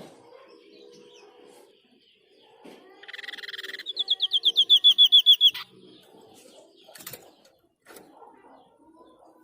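White-breasted babbler ('sniper' bird) calling: a short harsh buzzy rattle, then a fast run of about a dozen loud, clear downslurred notes that stops abruptly. This is its typical 'shot' call with a trill.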